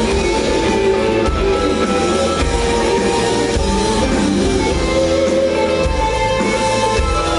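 Live rock band playing: guitar and drums over a bass line whose notes change about once a second.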